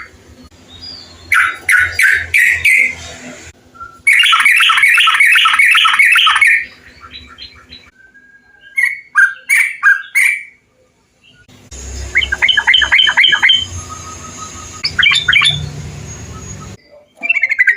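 Trucukan bulbuls singing in a series of spliced recordings: bursts of quick, bubbly chattering notes repeated several times a second, each take cutting in and out with its own background hiss, with a brief silent gap about two-thirds through.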